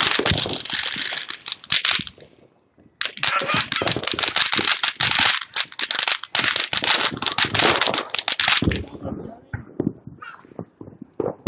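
A string of firecrackers going off in a fast run of sharp pops. It breaks off about two seconds in, starts again a second later for about six seconds, then trails off into scattered pops.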